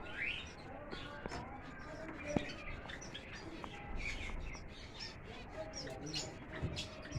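Many small caged finches chirping and twittering in short overlapping calls, with a sharp click about two seconds in.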